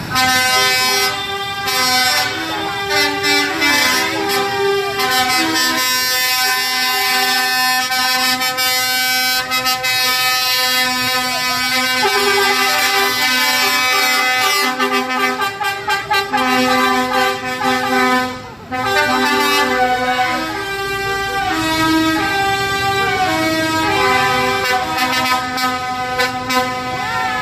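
Vehicle horns sounding almost without a break, long held notes switching among a few pitches, over the running engines of passing tractors and trucks. There is a short lull about 18 seconds in.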